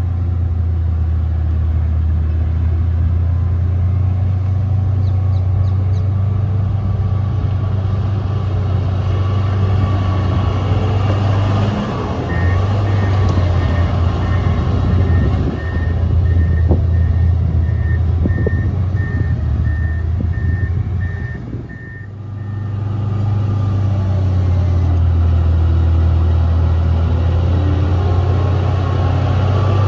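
Motor grader's diesel engine running steadily. Partway through, its reversing alarm beeps at an even pace for about ten seconds while the machine backs up. Near the end of the beeping the engine briefly drops off, then builds back up.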